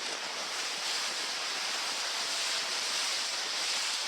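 Steady rush of wind and water spray from a sailing race on a blustery harbour, with wind buffeting the microphone.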